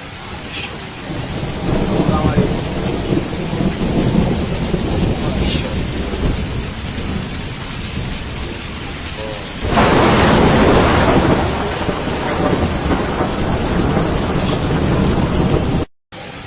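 Heavy rain in a thunderstorm, with a low rumble of thunder throughout and a louder surge about ten seconds in. The sound cuts out briefly near the end.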